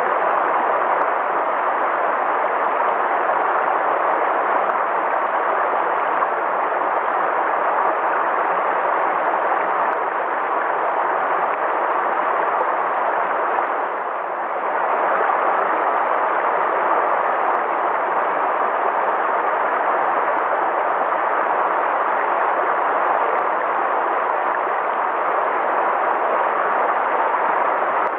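River water flowing in a steady, even rush, dipping briefly about halfway through.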